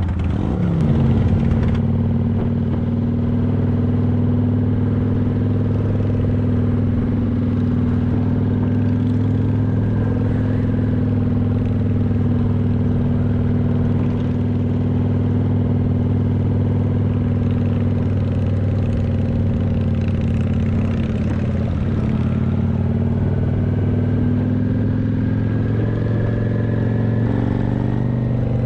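Motorcycle engine revving up about a second in, then running at steady revs.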